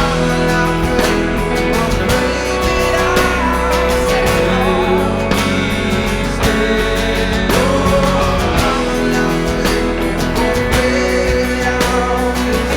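Live band music: an instrumental passage of a rock song between sung lines, with guitar and steady drum hits.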